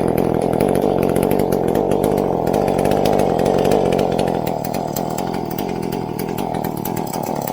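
Two-stroke chainsaw running steadily, getting a little quieter about halfway through.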